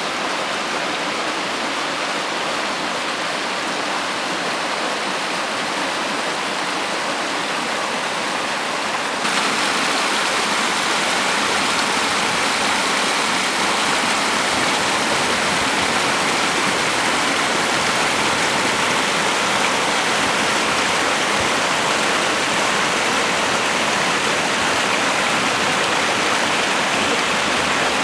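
Waterfall pouring steadily. About nine seconds in, the rushing becomes suddenly louder and brighter, then stays even.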